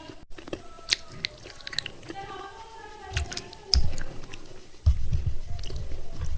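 Broken baked-clay pot pieces being bitten and chewed close to the microphone: sharp, crisp crunches, then loud, heavy chewing from about five seconds in.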